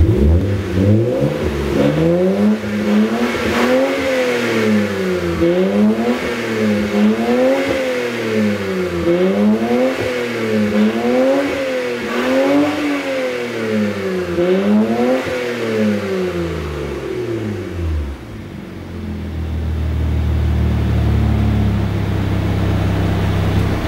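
BMW E89 Z4 engine breathing through a newly installed Eisenmann Race quad exhaust with midpipe, revved up and down about a dozen times in a steady rhythm, roughly one rev every second and a half. About three-quarters of the way through it drops back and settles to a steady idle.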